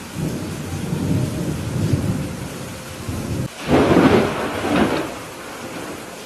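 Thunder rumbling low over steady rain. A louder, sharper peal of thunder breaks about three and a half seconds in, with a second swell a moment later, then fades back into the rain.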